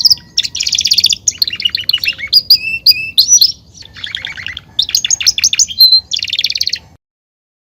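Canary singing a fast, loud song of rapid trills broken by short whistled notes, with a brief pause about halfway. The song cuts off suddenly near the end.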